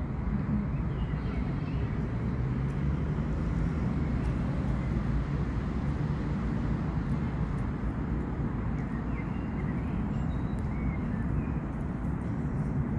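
Steady low rumbling outdoor background noise, with a few faint high chirps now and then.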